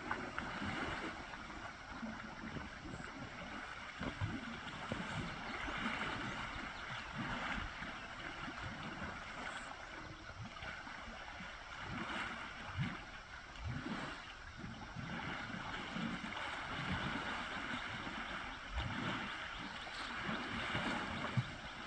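Pond water sloshing and splashing, with irregular low thuds, as wild elephants wade and bathe.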